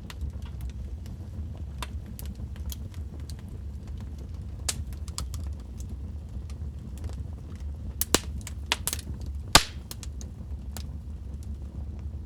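Fireplace fire crackling: scattered sharp pops and snaps over a steady low rumble, with a cluster of louder snaps about eight to ten seconds in.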